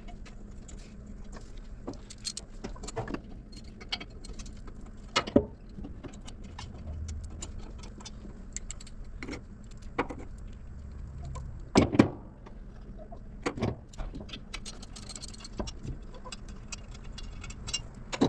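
Scattered metal clinks and knocks of exhaust manifold bolts and hand tools being handled while the manifold is fitted to the cylinder head. Two louder knocks stand out, about five and twelve seconds in.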